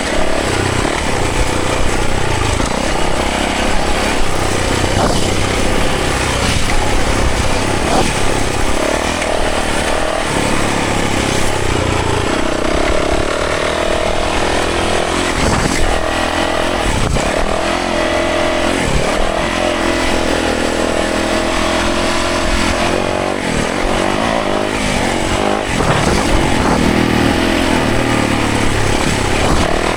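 Yamaha 450 dirt bike's single-cylinder four-stroke engine being ridden on a trail. It revs up and drops back repeatedly as the throttle opens and closes through the gears.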